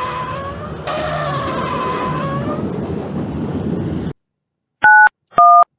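A loud whirring, scraping noise whose pitch dips and comes back up about twice, cutting off about four seconds in. After a short silence come three telephone keypad tones as a phone is dialed, the last at the very end.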